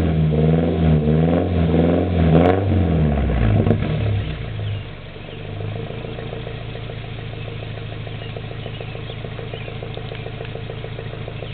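Nissan KA24DE 2.4-litre four-cylinder running through a dual 3-inch straight-pipe catback with stock manifold and cat, revved lightly a few times, then dropping back about five seconds in to a steady idle.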